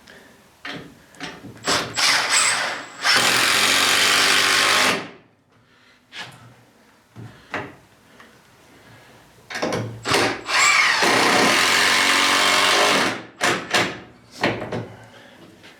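Power drill boring holes through wooden corner braces: two runs of about two seconds each, the first winding down as the trigger is released, with short knocks of wood and tool handling around them.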